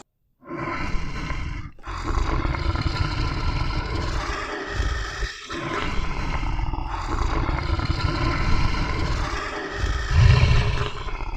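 Bear growling and roaring in long, rough roars separated by a few short breaks, loudest near the end.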